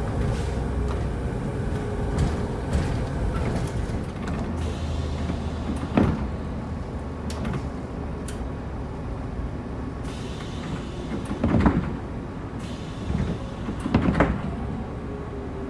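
Inside a moving car on a snowy road: a steady low rumble of engine and tyres, with a few short knocks and thumps, the sharpest about six seconds in and two more near the end.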